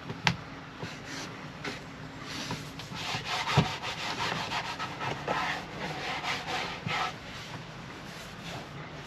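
Rubbing and scraping of material being worked by hand, with a sharp click near the start and a knock about three and a half seconds in.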